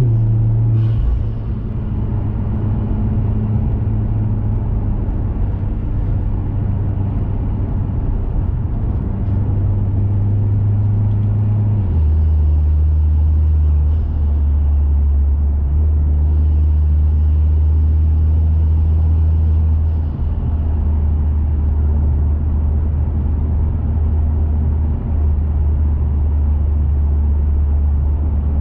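2021 Mazda 3 Turbo's turbocharged 2.5-litre four-cylinder running under way through a CorkSport cat-back exhaust and BMS high-flow intake, a steady drone. About twelve seconds in, the engine note drops to a lower pitch and holds there, with brief dips a few times after.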